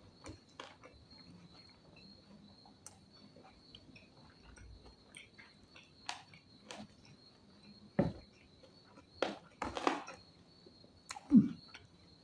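Close-miked eating sounds: scattered short mouth clicks and smacks while chewing food, a few louder ones in the second half, over a faint steady high-pitched tone.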